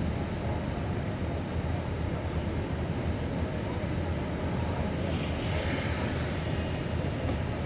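Steady low rumble of vehicle noise, with a brief rush of hiss a little past the middle.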